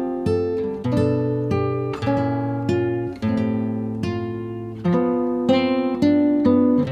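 Background music: an acoustic guitar plucking a slow melody over chords, each note ringing and fading.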